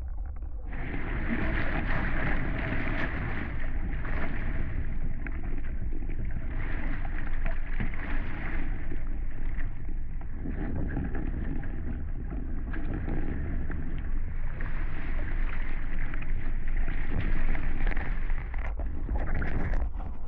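Water rushing and splashing along the hulls of a Hobie 16 catamaran under sail, swelling and easing every few seconds and growing louder about a second in, over a steady rumble of wind on the microphone.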